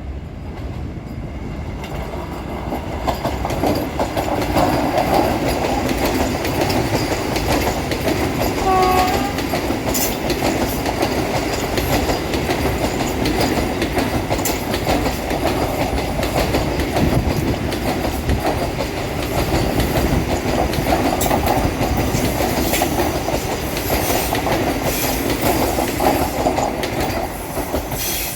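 Indian Railways train passing close by, its wheels clattering over the rail joints in a steady loud rush that builds over the first few seconds. A short tone sounds about nine seconds in.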